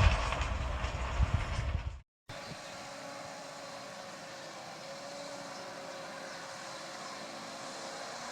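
A rail vehicle running on track, with low rumble and metallic clatter, that cuts off abruptly about two seconds in. A steady, quieter machine hum with a faint constant whine follows.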